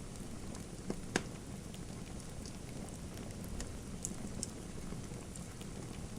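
Wood fire crackling in a fireplace: a steady hiss and low rumble with scattered sharp pops, the two loudest about a second in.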